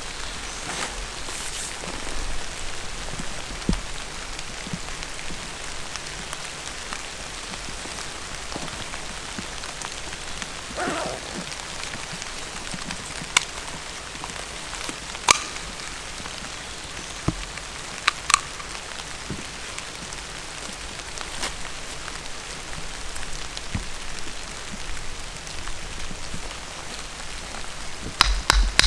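Steady rain falling, with a few sharper single drops or taps standing out now and then.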